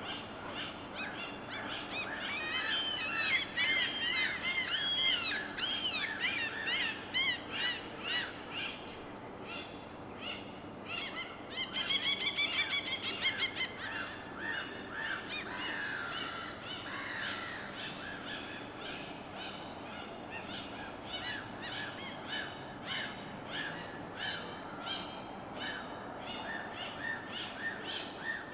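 Birds calling over a faint steady background. Short chirps repeat throughout, with a dense run of arching, up-and-down calls in the first few seconds and a loud, repeated ringing call about twelve seconds in.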